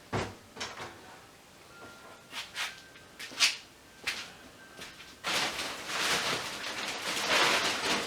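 Scrap metal parts being handled and sorted: a few separate knocks and clinks, the loudest about halfway, then a few seconds of rustling and scraping that grows louder near the end.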